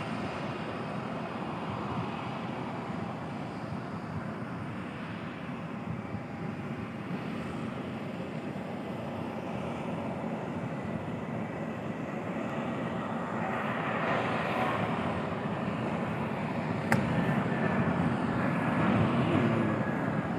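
Steady rushing aircraft engine noise with a faint whine, growing louder in the second half. A single sharp click comes near the end.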